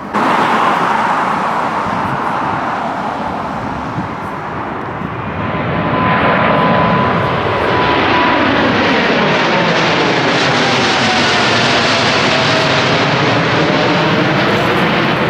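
Jet engines of a widebody airliner climbing out low overhead after takeoff. The noise starts abruptly, grows louder about six seconds in, and carries an engine whine that slowly drops in pitch as the aircraft passes.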